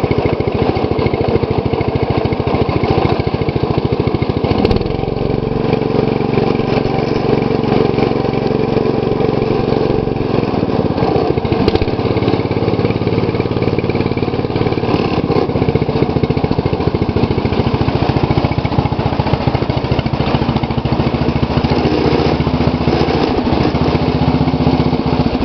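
2012 MTD lawn tractor's engine running steadily while the tractor rolls in neutral; the engine note changes about four and a half seconds in.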